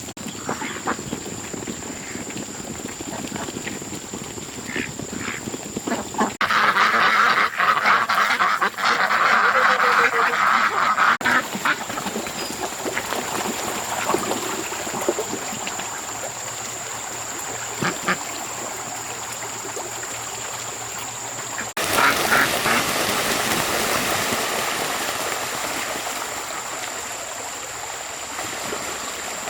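Ducks quacking on and off, loudest in two stretches, over a steady high-pitched hum.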